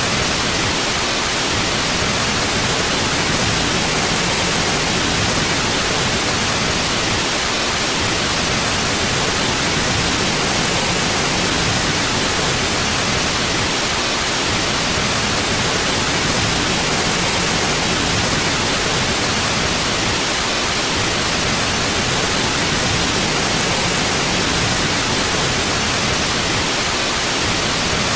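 Steady white noise: an even, unbroken hiss that holds the same level throughout.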